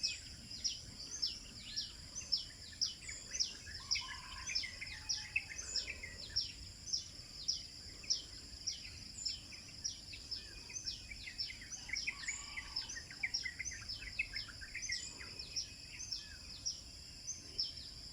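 Several birds chirping outdoors: a stream of short, quick, falling high notes, two or three a second, with softer lower chirps among them, over a steady high-pitched whine.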